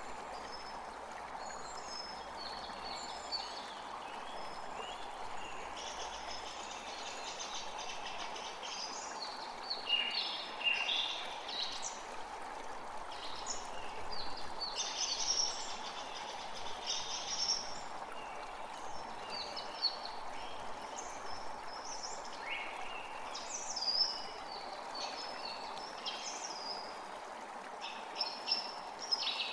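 Steady rush of running water with many songbirds calling over it in short, quick phrases, busiest in the middle and again near the end.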